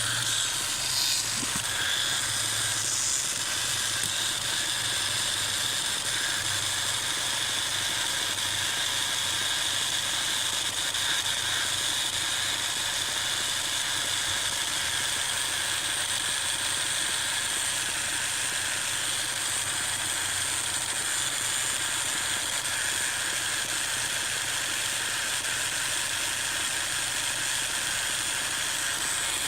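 Strange buzzing noise from a 2017 Ford Focus RS: a low buzz that skips in and out a little, over a steady hiss. Its cause is unknown.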